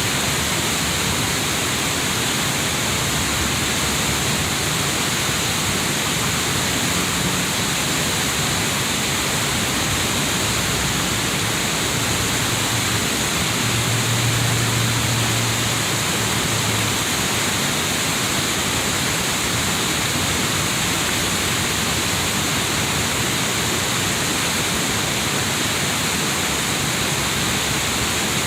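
Waterfall on a river: a steady rush of falling water.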